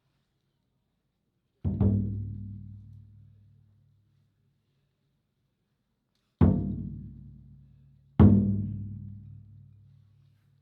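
Taiko drum struck three times, single heavy beats a few seconds apart, the last two close together, each booming low and ringing away over about two seconds.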